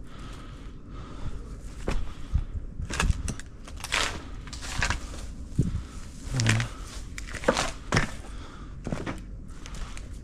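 Slow, uneven footsteps crunching on a gritty surface, about one a second, with scattered crackles between them.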